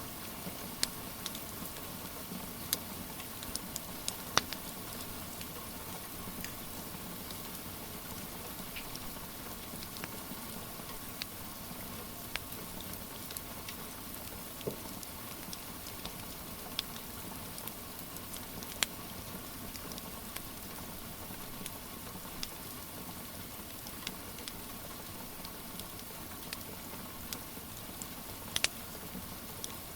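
Steady rain hiss with the irregular sharp crackles and pops of a wood fire in a fireplace.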